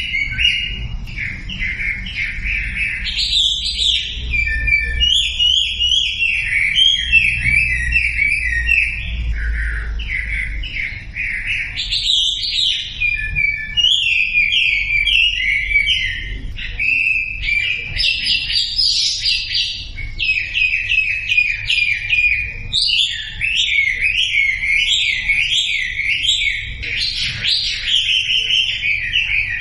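Wambi songbird singing a continuous, rapid song of quick repeated chirping notes, played as a masteran prompt recording to draw a silent caged wambi into song.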